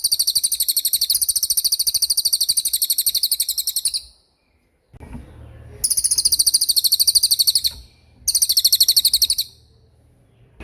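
Small songbird singing very fast, high, rattling trills in three long runs, the first about four seconds long, the others shorter, with short pauses between. A faint low hum sits under the second and third runs.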